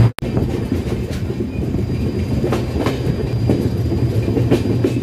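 Passenger express train running: a steady rumble of the coach's wheels on the track, with irregular clicks as the wheels pass over rail joints.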